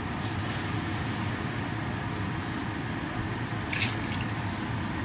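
Water poured into a pan of prawn biryani masala on the stove: a steady pouring hiss, with two brief splashy bursts, one near the start and one about four seconds in.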